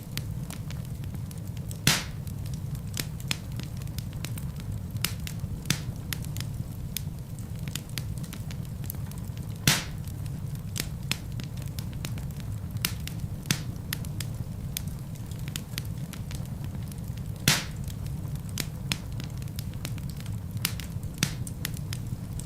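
Wood fire burning in a fireplace: a steady low rumble under constant small crackles, with three louder pops of the burning logs about eight seconds apart.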